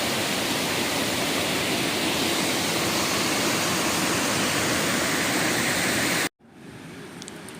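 Steady rush of a waterfall's falling water, which cuts off suddenly near the end, leaving a much quieter background.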